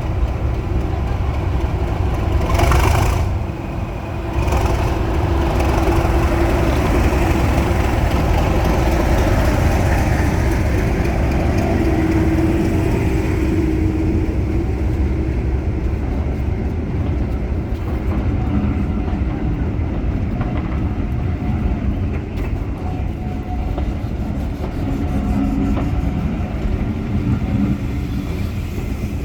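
Heritage diesel locomotive running with a steady low rumble, with a brief hiss about three seconds in.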